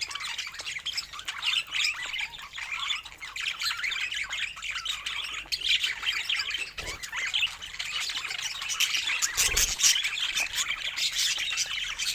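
A group of budgerigars chattering together: a dense, continuous stream of short, overlapping chirps and warbles.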